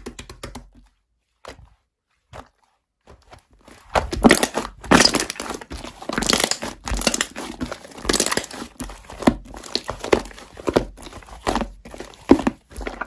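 Slime being squished and pressed by hand, with a few faint clicks at first, then from about four seconds in a dense, loud crackling with many small sharp pops.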